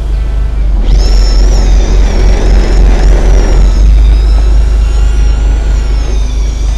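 Fishing boat's engine running with a steady low rumble. About a second in, a high wavering whine starts over it.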